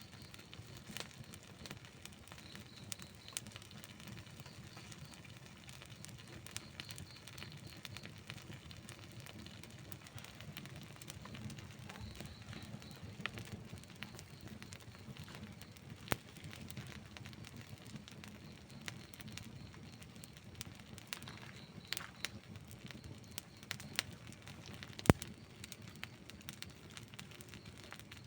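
Campfire of burning wood: a low steady rush of flames with scattered crackles and sharp pops, one pop near the end louder than the rest.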